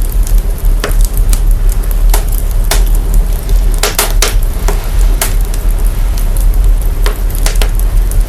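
Crackling fire run through heavy audio processing: irregular sharp pops and crackles over a steady hiss and a constant deep sub-bass rumble.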